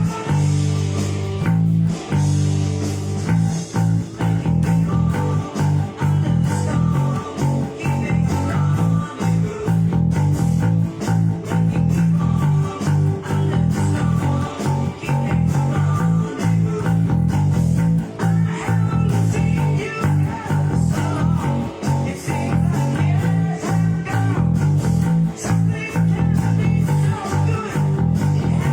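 Electric bass guitar played through a rock song with electric guitar, a quick repeating riff that drives the whole passage.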